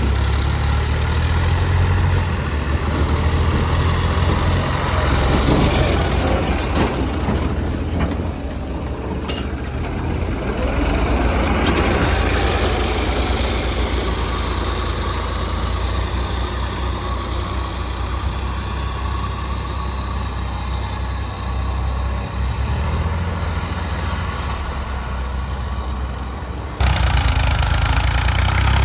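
Diesel engine running steadily, with a few sharp knocks about seven to nine seconds in. Near the end the sound jumps suddenly louder and brighter.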